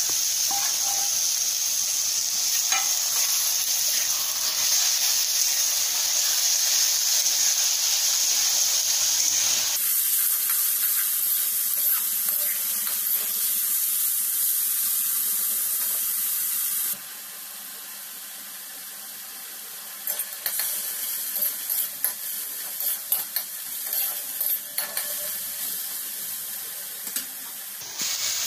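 Marinated chicken and sliced onions sizzling in hot oil in a kadai while a spatula stirs them. The sizzle drops suddenly to a quieter level about two-thirds of the way through, and irregular spatula scrapes and clicks against the pan follow.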